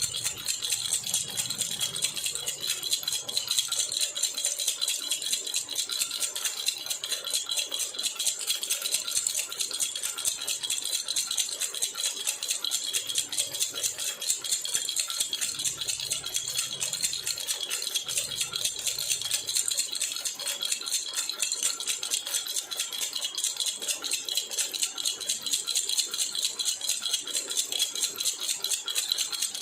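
Jhunjhuna baby rattle shaken continuously in a fast, steady jingling rhythm.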